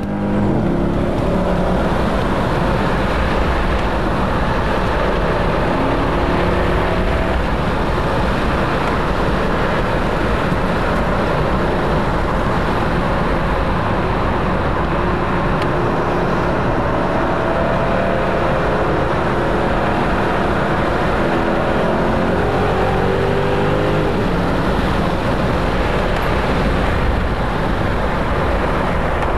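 Car engine running hard at speed, its pitch climbing again and again as it accelerates through the gears, over steady road and wind noise.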